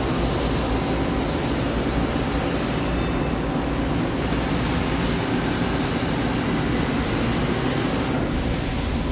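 Steady hum and hiss of a powered-up Nakamura-Tome AS-200Y CNC turning center and the shop around it, with the hiss swelling briefly twice.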